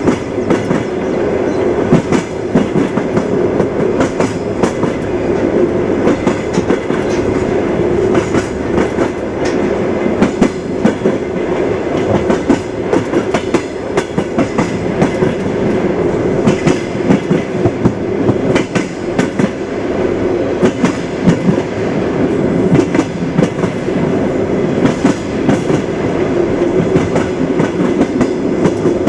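Train wheels clattering over rail joints as the train runs steadily, the clicks coming again and again over a constant rumble.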